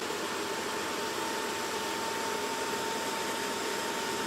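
Ballu electric heat curtain running with its fan blowing steadily: an even rush of air with a faint steady high tone. The fan is turning smoothly without squealing, its slipping shaft now glued into the rubber coupling.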